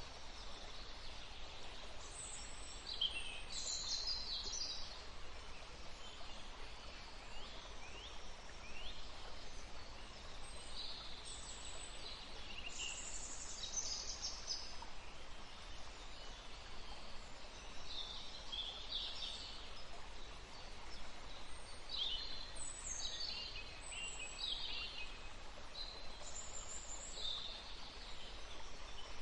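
Steady rush of a small woodland stream, with songbirds chirping and trilling in short high-pitched bursts throughout.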